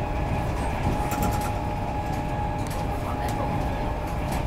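Interior running noise of an Intercity 225 Mark 4 coach travelling at speed: a steady low rumble with a faint held whine and a few light clicks scattered through it.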